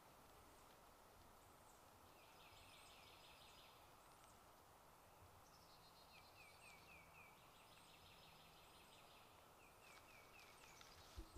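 Faint songbirds singing, several short runs of quick repeated chirps, over a low steady hiss.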